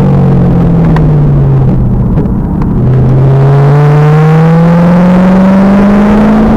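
2000 Pontiac Trans Am Firehawk's 5.7-litre LS1 V8 under hard driving: the engine note falls as revs drop, dips briefly about two and a half seconds in, then climbs steadily under acceleration. It is recorded loud and rough, with a heavy noise haze over the engine.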